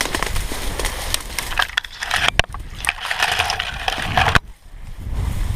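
Dry grass and brush crackling and crunching underfoot as someone pushes through heavy cover, with wind rumble on the microphone. The crackling cuts off abruptly about four and a half seconds in.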